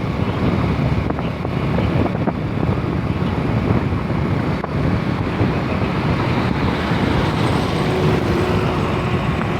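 Steady traffic-like rumble with wind noise on the microphone.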